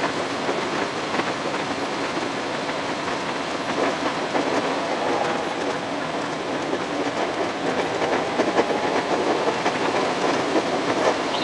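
521-series electric train running on the rails, heard from inside at the front, a steady rumble with rapid, closely spaced wheel clatter, sped up sixfold.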